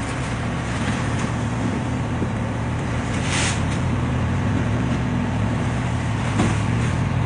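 Steady low drone of a vehicle's motor running, with a brief hiss about three and a half seconds in.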